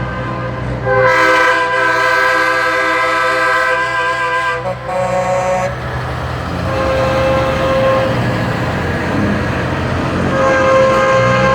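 Truck air horns blowing several tones together like a chord: a long blast of about four seconds starting about a second in, a short blast after it, then further blasts in the second half, over a steady low rumble.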